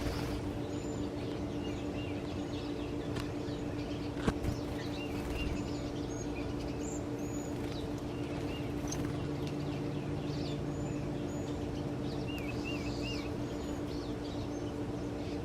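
Small birds chirping and calling, with many short chirps and a few quick warbling phrases. A steady low hum runs underneath, and a single sharp click comes about four seconds in.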